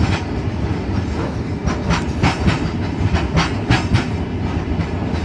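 Loaded iron ore freight train running, heard from on top of a wagon: a steady low rumble of wheels and wagons with irregular short metallic clanks and clicks, several of them in the middle seconds.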